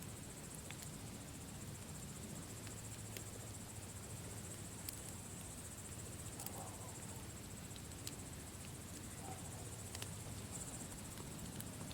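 Campfire crackling: irregular sharp pops over a low steady rumble, with a steady high-pitched trill above it.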